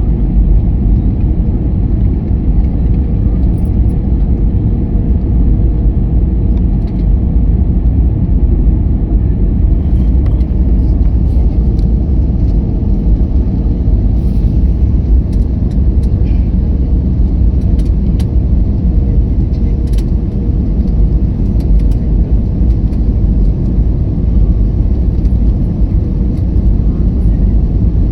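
Steady, loud low rumble of an airliner's engines and rushing air, with a faint steady hum above it.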